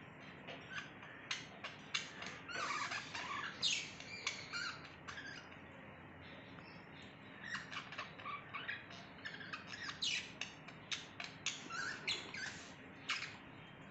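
Budgerigar chattering in quick, short high-pitched chirps and squawks, with a brief lull of a second or two midway.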